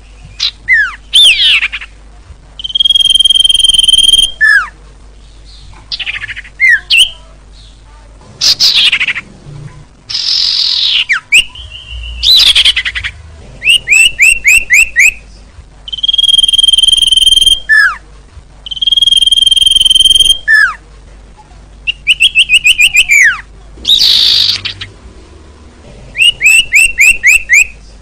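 Bird-lure recording of small songbirds calling. Steady whistled notes about a second long alternate with quick runs of descending chirps and sharp downslurred notes, repeating every couple of seconds.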